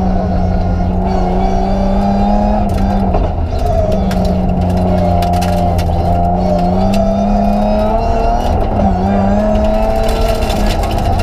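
BMW 325 Group A rally car's straight-six engine running hard under load, heard from inside the cabin. Its revs sag and climb again several times, with scattered clicks and rattles.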